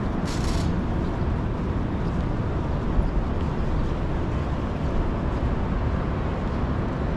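City street ambience: a steady rumble of passing traffic, with a short hiss about half a second in.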